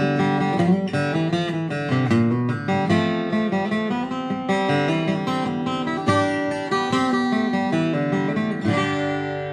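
Acoustic guitar playing a tune, plucked and strummed, ending on a chord left ringing near the end.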